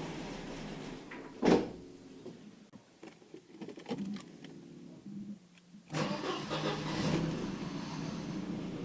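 Mercedes W124's 2.0-litre M102 four-cylinder engine, cold, dies about a second in with a loud thump. After a few quieter seconds it starts again near the six-second mark and runs on. This is the start-and-stall fault of its KE-Jetronic mechanical injection.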